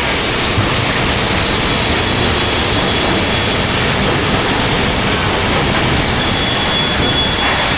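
Wide belt calibrating sander running under load, a loud steady rushing noise from the sanding belt and motor, with a faint high whine joining about six seconds in.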